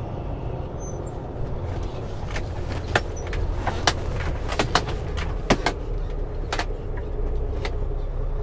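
Semi truck's diesel engine rumbling steadily, heard from inside the cab, with a series of short sharp clicks or knocks at irregular intervals through the middle.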